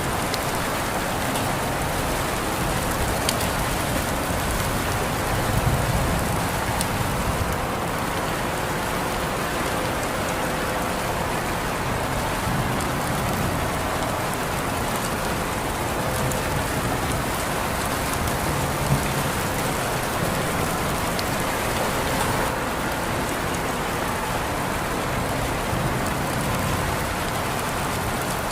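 Steady rain falling, a dense even hiss with scattered sharp drop ticks.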